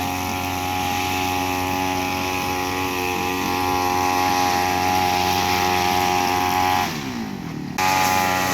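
A motor running steadily at a constant pitch. About seven seconds in its pitch falls and the sound drops away briefly, then comes back suddenly.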